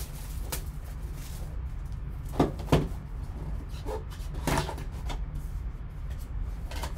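Hands handling a trading card box and its packaging: a few sharp clicks and knocks, the loudest two close together about two and a half seconds in and another about four and a half seconds in, over a steady low hum.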